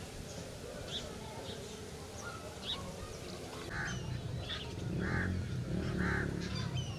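Birds calling: short honking calls, like a goose or duck, come several times in the second half over higher chirps. A low rumble comes in about halfway through.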